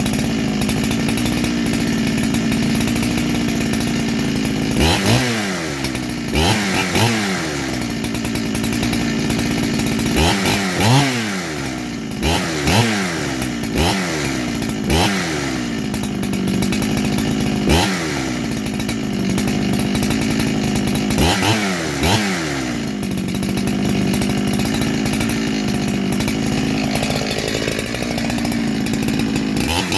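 Farmertec G372XT chainsaw, a two-stroke with a freshly ported cylinder, idling on its first run after the porting. It is blipped to high revs about a dozen times, several in quick pairs, each rev dropping straight back to idle, then it idles steadily for a while.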